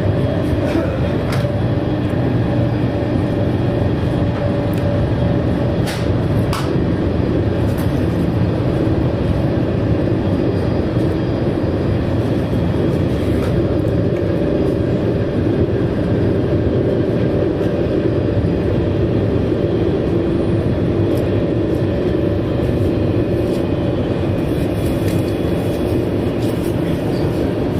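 Steady running noise heard from inside a TGV Duplex high-speed train: a constant deep rumble of wheels on rail and air rushing past, with a few faint clicks.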